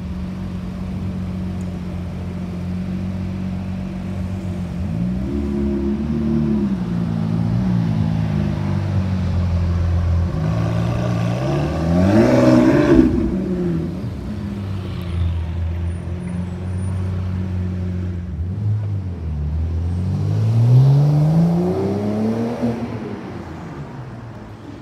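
Lamborghini Aventador SVJ's V12 idling with a steady low note, blipped a few times and then given one sharp rev about halfway through. Near the end a supercar engine revs up, rising in pitch for a few seconds as it accelerates away, then fades.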